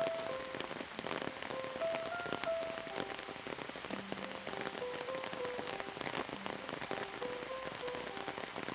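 Steady rain falling, with many separate drops ticking close by, under a slow, soft melody of held notes.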